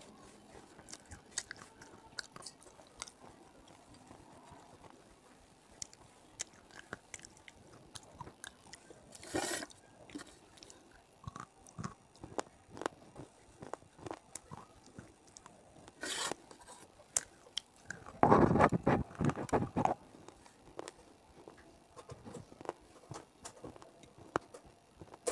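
Close-up mouth sounds of biting and chewing hard, crunchy grey chunks: scattered crisp crunches and clicks, two sharp bites in the middle, and a louder run of crunching about three quarters of the way through.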